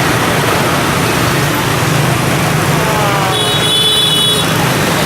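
Dense street traffic, mostly motorbikes, running as a steady wash of engine and road noise. A short high-pitched beep sounds about three seconds in and lasts about a second.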